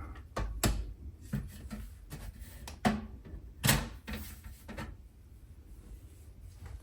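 Panels and parts of a small-form-factor PC case being handled and taken off: a series of sharp clicks and knocks over the first five seconds, the loudest about three and a half seconds in, then quieter handling.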